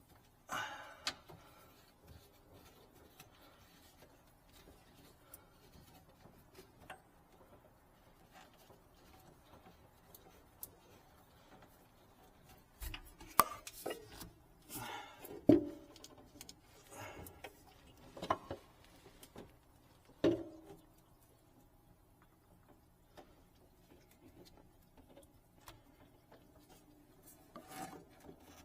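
Scattered clicks, knocks and rubbing from hand work on sink plumbing, with a cluster of louder knocks midway.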